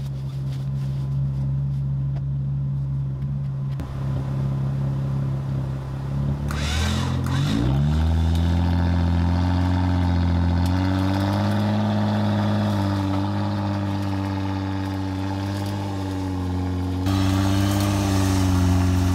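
Vehicle engine idling, then revving up about seven seconds in and held at steady raised revs, typical of a vehicle pulling on a recovery line.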